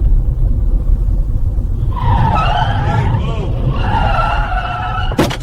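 Heavy truck's engine rumbling low, with tyres squealing in high, wavering tones from about two seconds in as the wheels struggle for grip.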